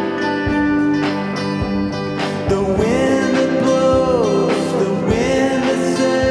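Band music in a country style, guitar-led with percussive hits, with held notes that slide down and back up in the middle.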